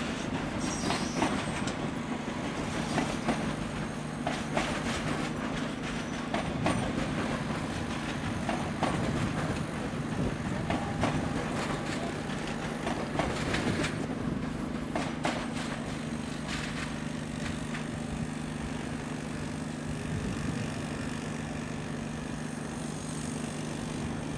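Renfe Cercanías electric commuter train rolling slowly through station trackwork, its wheels clicking over rail joints and points under a steady low hum. The clicks are frequent at first and thin out over the last third.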